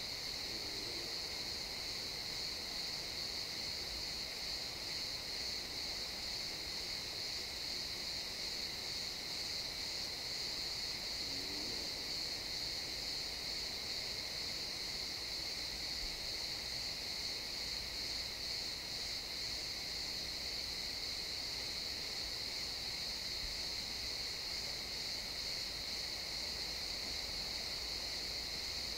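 Chorus of crickets chirping steadily in a pine forest, a continuous high-pitched trill.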